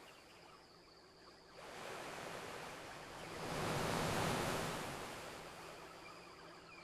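Ocean wave washing onto the shore: a hiss of surf swells up after a quiet first second or so, peaks about halfway through and dies away.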